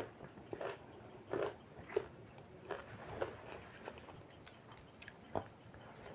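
A person chewing food close to the microphone, with wet mouth smacks and clicks coming about every half second.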